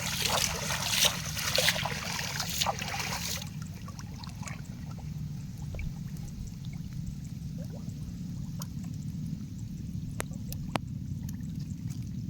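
Water splashing and sloshing as a person wades waist-deep through a creek, busiest for the first three and a half seconds or so. After that come quieter trickling and a few small splashes.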